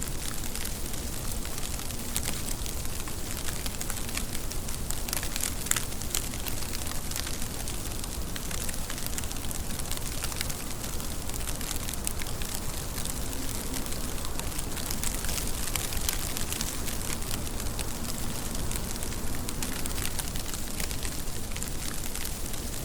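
Steady rain, with a dense crackle of drops striking a surface.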